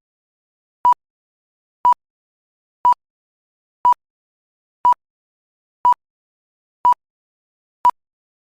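Short electronic beeps of one steady pitch, evenly spaced about one a second with silence between them, eight in all.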